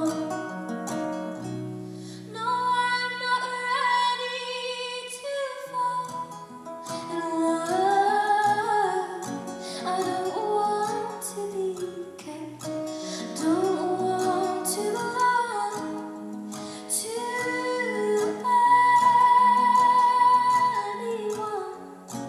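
A woman singing a song to acoustic guitar accompaniment, with long held, gliding notes.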